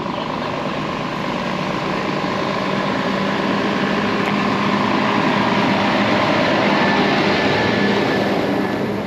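Aircraft passing overhead: a broad engine noise swelling to its loudest about seven seconds in, then easing off, over a steady low hum.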